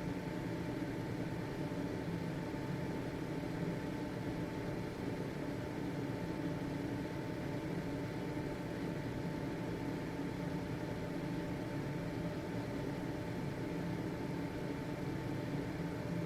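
Household ventilation fan running steadily: an even whir with a faint steady hum.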